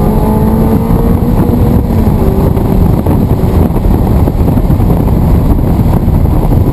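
Sports car driving at speed on a track: a loud, steady rumble of engine, road and wind noise, with the engine note faint beneath it.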